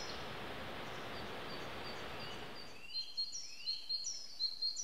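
A small bird calling over and over in short, high chirps that fall in pitch, with a steady rushing noise behind it that cuts off about three seconds in.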